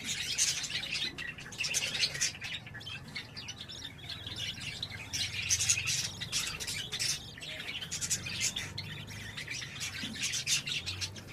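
Budgerigars chirping and chattering in a rapid run of short, high calls.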